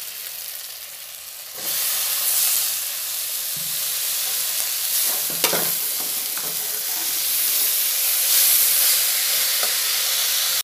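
Blanched broccoli florets frying in hot spiced oil in a kadai. The sizzle jumps louder about one and a half seconds in as the broccoli goes in, then holds steady while a metal spatula stirs and scrapes, with a few sharp clicks against the pan.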